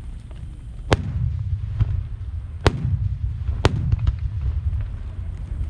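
Aerial fireworks shells bursting: three sharp loud bangs, about one, close to three and nearly four seconds in, with fainter cracks between, over a steady low rumble of booms.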